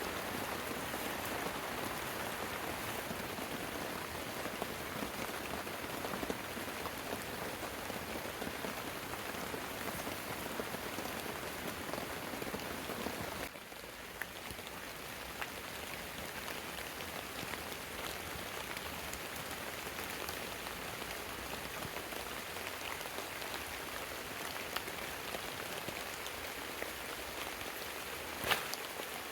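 Heavy rain falling steadily in a dense, even patter; it steps down a little in level about halfway through, and a single sharp tap sounds near the end.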